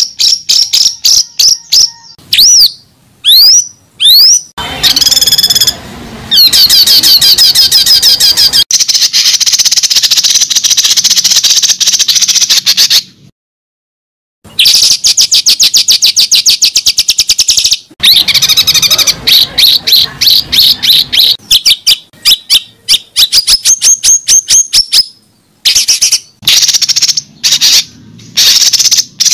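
A bird calling in loud, rapid runs of high chirps and trills, with a few downward-sweeping whistled notes about three seconds in. The sound cuts to complete silence for about a second near the middle.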